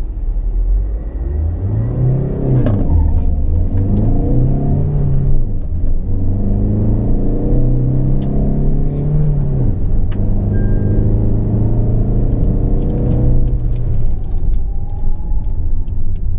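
Tata Altroz's 1.5-litre turbo-diesel engine accelerating hard through the gears, heard from inside the cabin; its pitch climbs, dips at two gear changes, climbs again, then drops to a steadier lower note. A short beep sounds about ten seconds in.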